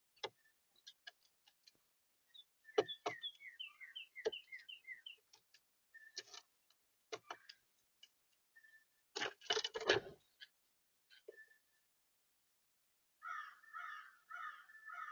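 Birds at a feeder: scattered sharp clicks and taps, a quick series of chirps early on, and a loud brief clatter near the middle. Near the end, a run of harsh, rapidly repeated calls.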